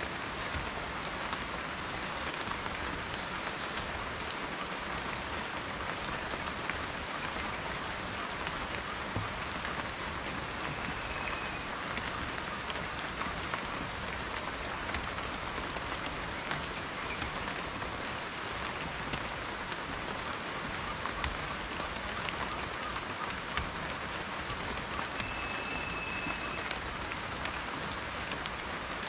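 Steady rain falling, with a dense patter of individual drops ticking on a surface at an even level throughout.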